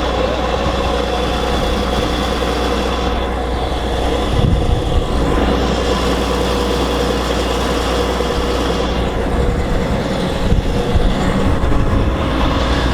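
John Deere 9750 STS combine's six-cylinder turbo diesel engine running steadily, with a few low thumps about four seconds in and again near the end.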